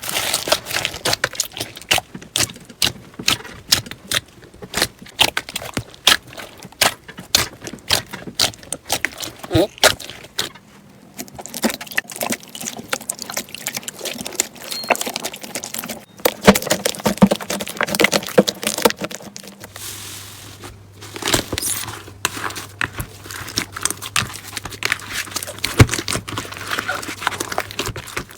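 Slime being squeezed and poked by hand: a dense, irregular run of sticky clicks and small pops.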